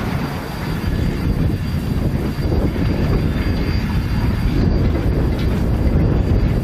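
Steady low rumble of a narrow-gauge steam train's freight cars rolling along the track.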